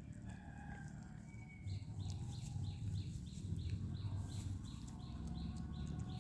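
Puppy lapping milk, a quick rhythmic lapping at about three laps a second that starts about two seconds in.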